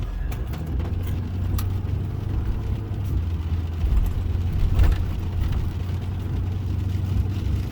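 Car driving along a road: a steady low rumble of engine and road noise, as heard from inside the car.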